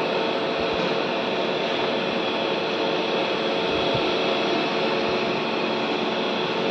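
Steady machine whir: an even hiss with several constant tones under it, unchanging in level.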